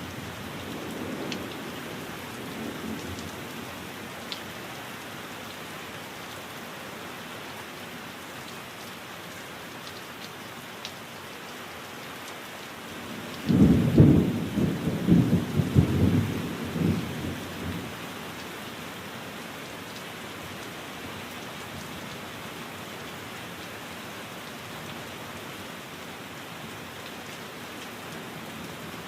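Steady heavy rain, with a rolling thunderclap about halfway through: a sharp crack that rumbles on for about four seconds before fading back into the rain. The tail of an earlier rumble fades out in the first couple of seconds.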